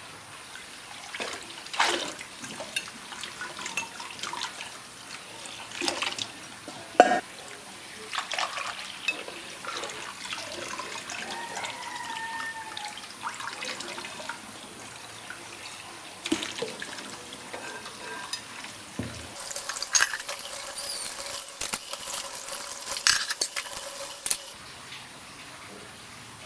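Washing up at a kitchen sink: water running from the tap in spells, with scattered knocks and clinks of dishes and utensils. A stretch of steady running water near the end stops abruptly.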